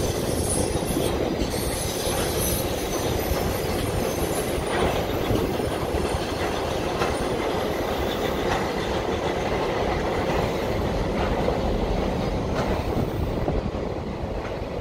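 Freight train of autorack cars rolling across a steel girder bridge: a steady rumble of wheels with occasional clicks, easing a little near the end as the last cars pass.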